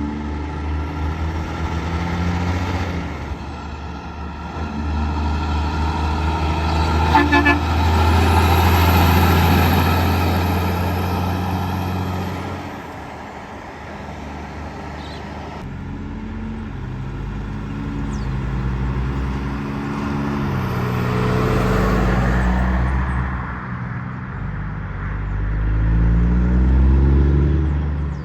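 Trucks passing on the road with engines running, their pitch rising and falling as they go by. A truck horn sounds as one long steady blast from about four seconds to about twelve seconds in.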